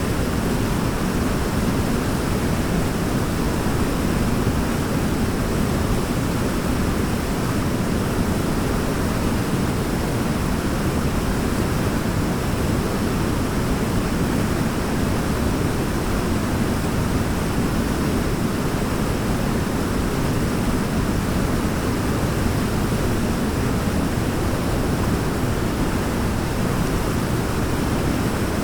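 Waterfall: water pouring and splashing in a steady, unbroken rush, deepest and strongest in the low range.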